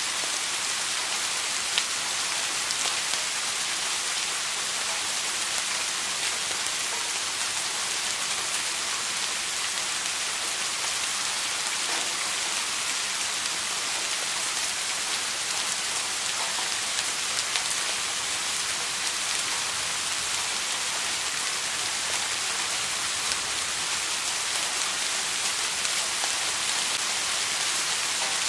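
Steady rain falling, a continuous even hiss with scattered small drop ticks.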